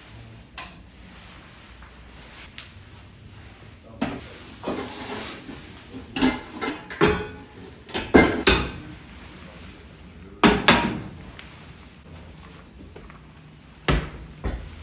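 Household handling sounds in a kitchen: a string of knocks and short clattering rustles, as of dishes set down and cupboards or drawers opened and closed, busiest in the middle.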